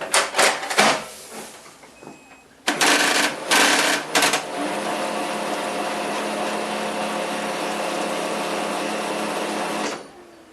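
HP LaserJet P4015n laser printer starting up: a few knocks, then louder noise from about three seconds in, settling into a steady mechanical run with a low hum that cuts off shortly before the end. The fuser is held pressed in by hand, and the rumble it makes from jumping against the drive gears is absent.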